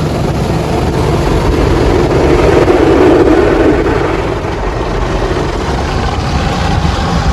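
Automatic car wash equipment working over the car, heard from inside the car: a loud, steady rushing noise with a low rumble, swelling about two to four seconds in and easing after.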